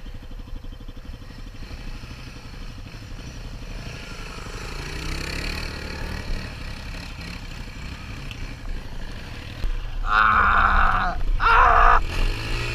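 Dual-sport motorcycle engine running and revving on a muddy trail, its pitch rising several times about four to seven seconds in. Near the end come two loud, high-pitched stretches, each about a second long.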